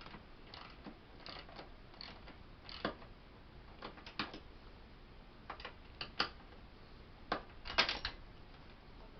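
Scattered light clicks and knocks of hand tools and bolt hardware being worked on a recliner's metal frame, irregularly spaced, with a quick run of several clicks about eight seconds in.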